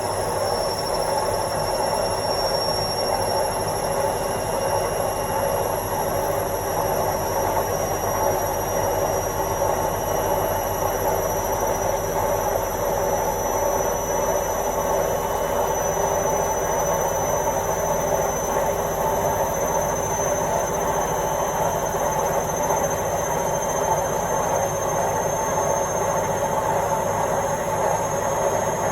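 Washing machine running, a steady even noise with a faint high whine that slowly rises in pitch.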